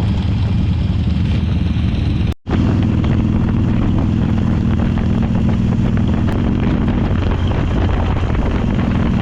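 Motorcycle engine running steadily while riding, with a brief gap about two seconds in.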